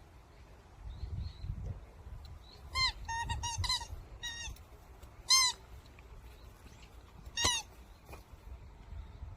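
A squeaky toy ball squeezed in a Jindo puppy's mouth as it plays, giving a run of short high squeaks that rise and fall in pitch. Four squeaks come in quick succession, and single ones follow about a second apart.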